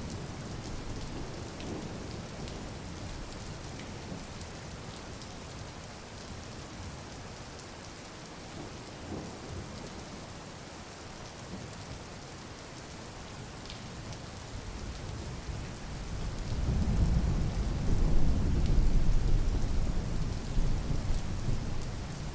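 Steady rain falling, with a low roll of thunder swelling up about two-thirds of the way in and easing off near the end.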